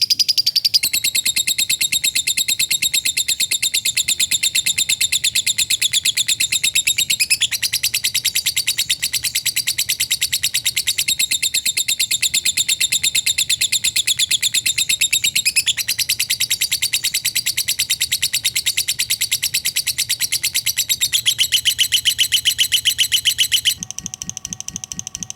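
Lovebird ngekek: a long, very fast, high-pitched chattering trill held without a break, stepping slightly in pitch a few times. Near the end it turns quieter and changes to a different repeating pattern.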